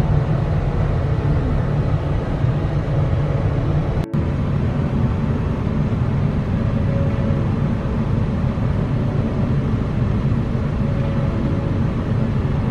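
Car driving, a steady low rumble of road and engine noise heard from inside the cabin, with a brief break about four seconds in.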